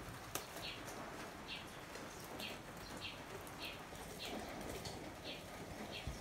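A small bird chirping over and over, one short high chirp about every two-thirds of a second, with a single sharp click about half a second in as the wire grill basket is opened.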